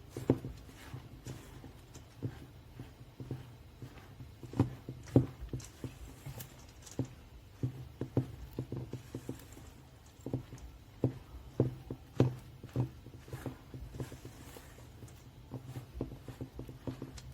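A utensil knocking and scraping against a mixing bowl as thick oat and chocolate cookie dough is stirred, in irregular taps and clicks.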